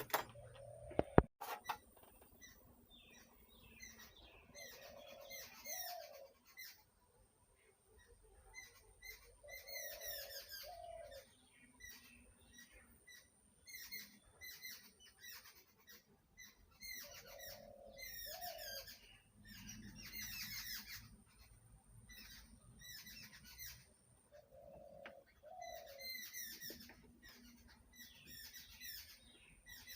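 Small birds chirping and twittering in repeated bursts, with a lower two-part call recurring every several seconds. A few sharp clicks in the first second and a half are the loudest sounds.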